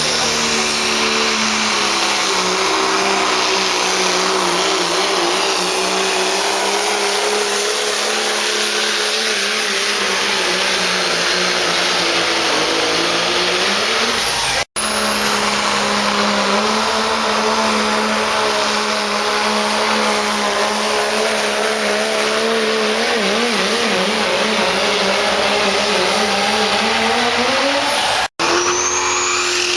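Modified turbo-diesel pickup truck at full load pulling a sled, its engine held at high rpm with a dense, steady exhaust note and a high whistle in the second half. The sound cuts out abruptly twice, each time picking up again on another pass.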